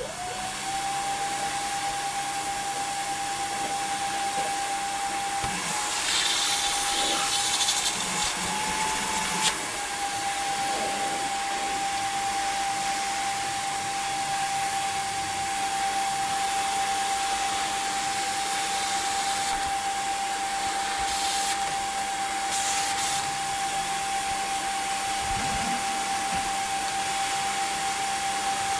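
Gutter vacuum motor switching on and running with a steady high whine over a rushing hiss. A louder hiss comes in for a few seconds about six seconds in and again briefly past the twenty-second mark.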